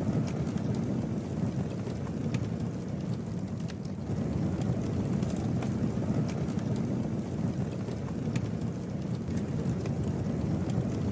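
Wood campfire burning, with scattered sharp crackles and pops over a steady low rush of the flames.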